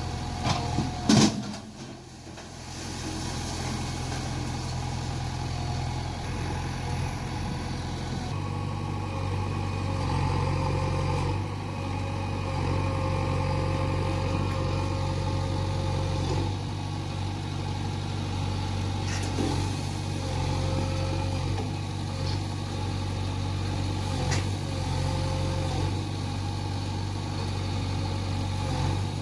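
Backhoe loader's diesel engine running steadily, with a sharp clank about a second in; the engine note steps up and runs stronger from about eight seconds in.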